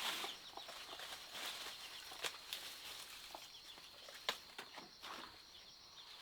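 Scattered light knocks, taps and rustles, with a faint steady high-pitched tone behind them.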